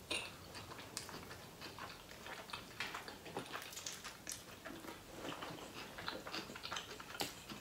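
Close-up sounds of a person chewing a mouthful of burger: soft, irregular wet smacks and small mouth clicks.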